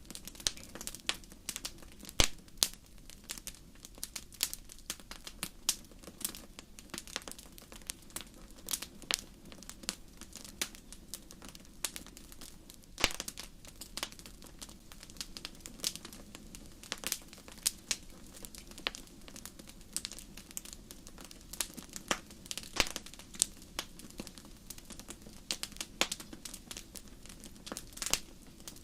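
Campfire crackling: burning wood giving off irregular sharp pops and snaps, several a second, with a few louder snaps, over a soft steady low background.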